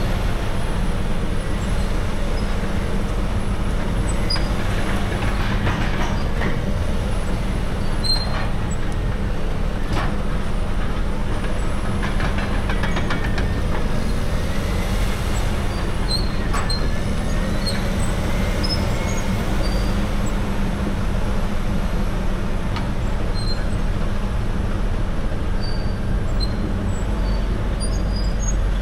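Caterpillar D6R dozer's C9 diesel engine running steadily under work, with a few sharp knocks scattered through.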